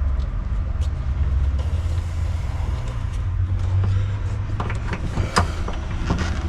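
Steady low rumble, with a few light clicks and rustles about five seconds in as the wires and heat-shrink tubing are handled.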